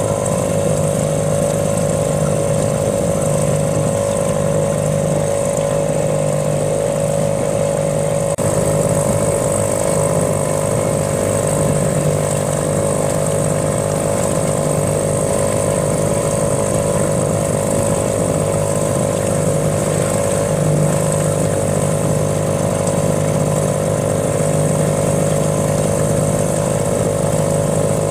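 A small motor running steadily at an even speed, a constant drone with no change in pitch or loudness.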